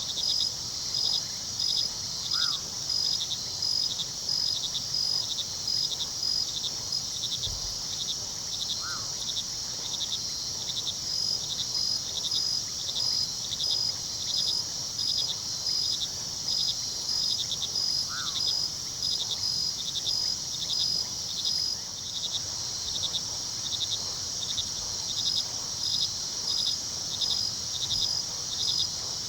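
Night crickets chirping: a steady high trill with a pulsing chirp about twice a second, over a faint low rush of river water. Three short falling calls come at intervals, about 2, 9 and 18 seconds in.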